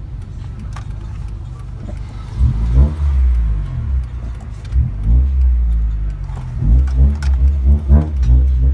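Honda Civic's four-cylinder engine heard from inside the cabin, idling steadily at first, then from about two and a half seconds in revving up again and again in short rises in pitch.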